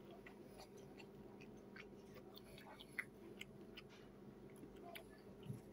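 Near silence: faint chewing with a few soft mouth clicks over a steady low room hum.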